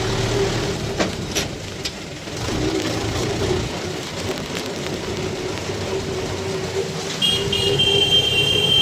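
Mahindra 475 SP tractor engine running steadily, with a few sharp knocks about a second in. Near the end a high, steady tone comes in over it.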